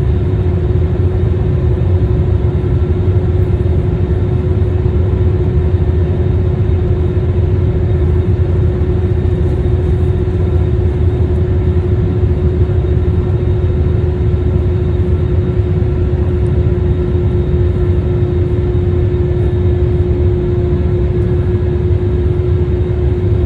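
Jet airliner engines running steadily, heard from inside the passenger cabin: a deep, even rumble with a constant hum over it.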